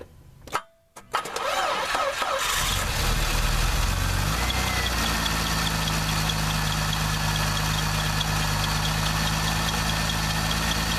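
After a click, a 1989 Eagle Premier's 3.0-litre overhead-cam V6 cranks over briefly, catches and settles into a steady idle. Through the idle runs a faint, regular chirp from the serpentine belt, which oil leaking from the seal behind the distributor is making squeak.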